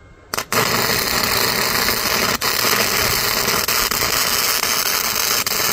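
Welding arc crackling and sizzling steadily, starting about a third of a second in, with a couple of very short breaks.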